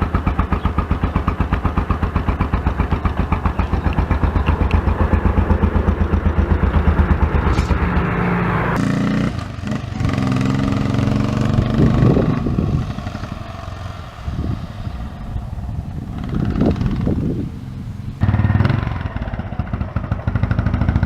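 Engine running with a fast, even firing beat. From about nine seconds in the sound changes abruptly to engine running with several short revs, each rising and falling. It changes abruptly again near the end.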